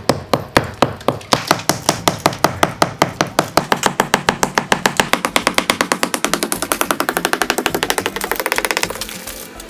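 Hammer knocking plaster off a brick chimney in an even series of sharp blows. The blows come faster and faster until they nearly blur into a buzz near the end.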